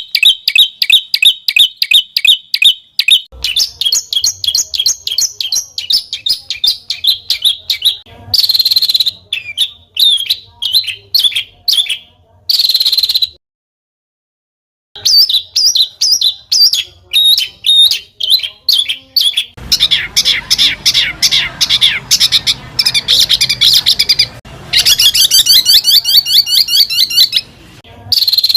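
Songbird song for training caged birds: rapid strings of sharp, repeated chirps and trills, several notes a second, broken by a silent gap about halfway through.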